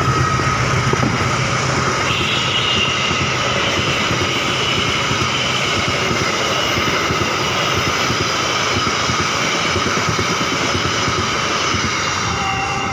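A train passing close by: a loud, steady running noise that eases slightly near the end.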